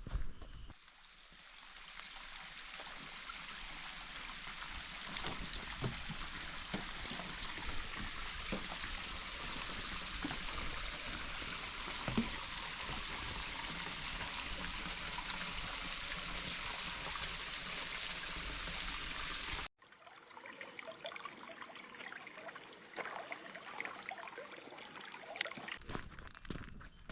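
Running water, a steady rush like a small stream, that cuts off suddenly about two-thirds of the way through; after it comes a thinner hiss with small ticks.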